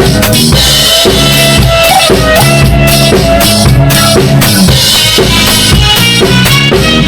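Drum kit played along to a pop song recording: a steady rhythm of kick and snare hits, with cymbals, over the song's bass and keyboards.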